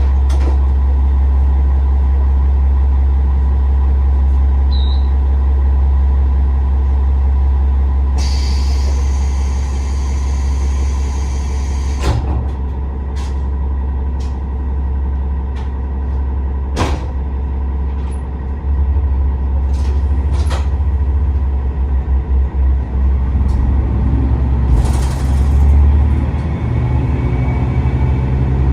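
Heard inside the cabin of a KiHa 47 diesel railcar: a steady low engine drone, two spells of compressed-air hissing and a scatter of sharp clicks. In the last third the drone grows louder and more uneven.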